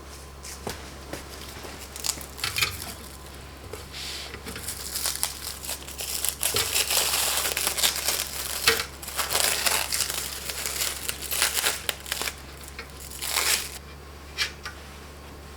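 Crinkling and crumpling of wrapping or packaging being handled, in irregular bursts over about twelve seconds, busiest in the middle, over a steady low hum.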